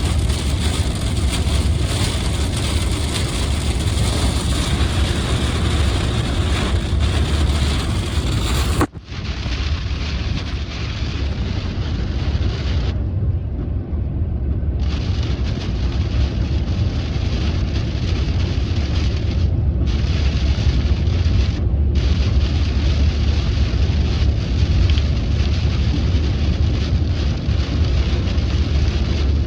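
Rain on a moving car, heard from inside the cabin: a steady hiss of rain and tyre spray over a deep rumble of road and engine. About nine seconds in the sound drops out abruptly for a moment and comes back duller, with less high hiss.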